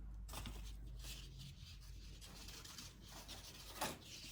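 Faint rubbing and scraping as hands handle paper craft materials, with a soft knock near the end.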